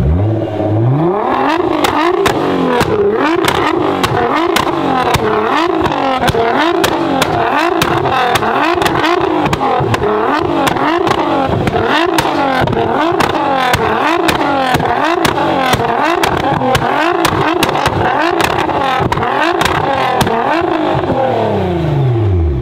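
A high-performance car engine revved hard in quick repeated blips, about one and a half a second, with sharp crackles and pops from the exhaust, then dropping back to idle near the end.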